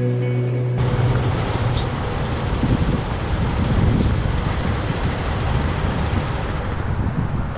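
Guitar music cuts off just under a second in, giving way to steady vehicle road noise, a dense rumble with a few faint ticks.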